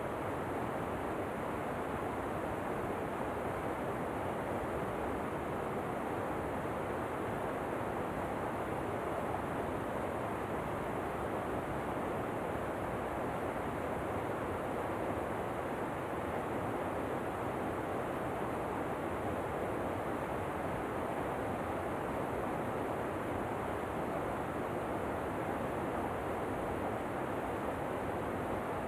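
Steady rushing water of a waterfall, an even unbroken roar with most of its weight in the low-middle range.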